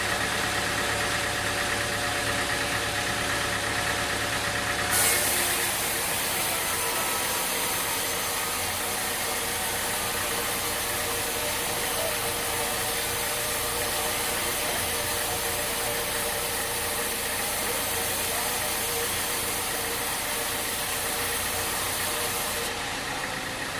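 Sawmill machinery running steadily. About five seconds in there is a brief thump, and a loud high hiss joins the steady hum, going on until near the end.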